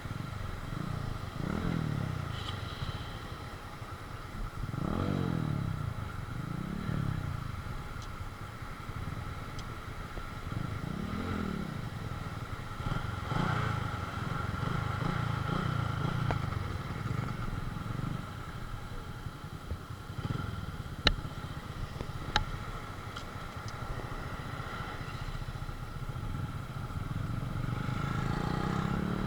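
Small motorcycle engine ridden off-road, revving up and falling back again and again as the throttle is worked, with two sharp knocks about two-thirds of the way through.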